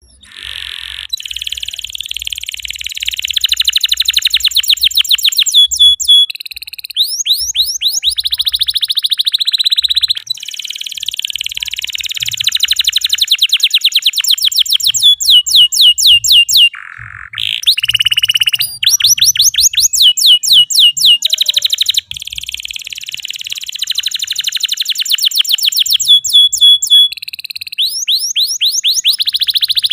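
Domestic canary singing continuously and loudly. Long rolling trills alternate with runs of quick, falling whistled sweeps, and the song pattern repeats about every ten seconds.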